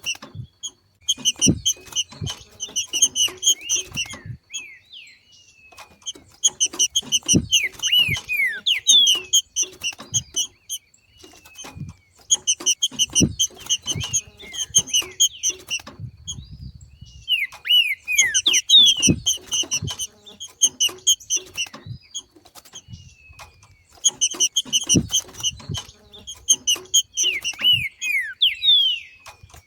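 Green-winged saltator (trinca-ferro) giving its 'macheado' call: bouts of rapid, high chattering notes a few seconds long, most ending in a few downward-sliding whistles, repeated about every five to six seconds. This is the call of a bird coming into breeding condition, which stirs other saltators to sing. Short soft knocks come between the notes.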